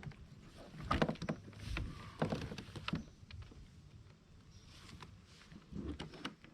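Irregular knocks and thuds on a kayak, from gear or a paddle bumping the hull. They bunch in the first half and come again briefly near the end.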